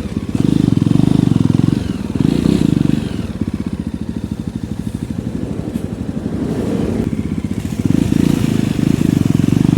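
Jawa Perak 350's single-cylinder engine running at low speed in slow traffic. The throttle is opened in short spells, louder early on and again near the end, with a softer steady run in between.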